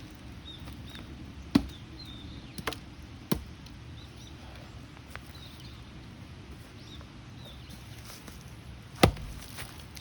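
Axe striking a knotty firewood round: sharp chops, three in the first few seconds and the loudest one near the end, with the gnarled wood not splitting.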